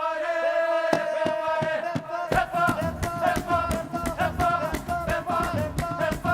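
Live music: a single held note with its overtones for about two seconds, then drums and a fuller band come in with a fast beat.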